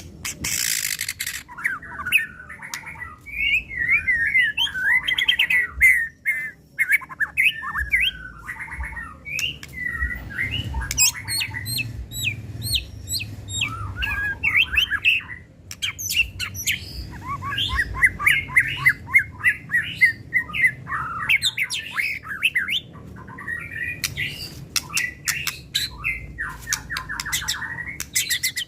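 White-rumped shama (murai batu) singing a long, rapidly changing song of whistled phrases, fast trills and sharp rattling clicks, with only brief pauses.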